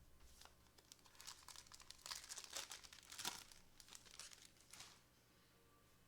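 Plastic wrapper of a trading-card pack being crinkled and torn open by hand: a run of quick, crackly rustles lasting about four seconds, loudest in the middle.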